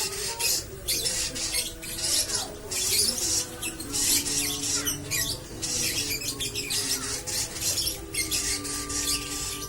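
Lovebird giving a long 'ngekek' chattering song in the 'konslet' style: a fast, continuous stream of high, harsh chatter broken only by very short pauses.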